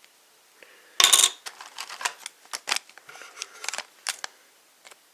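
Hands handling foil medal packs and small plastic medals: a short loud rustle about a second in, then a run of light clicks and crinkles.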